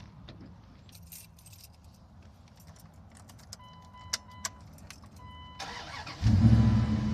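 Keys jingling and clicking, then a steady electronic chime sounding on and off. About five and a half seconds in, the Dodge Ram 1500's starter cranks briefly and the engine catches and runs loudly, a start-up test after the truck overheated.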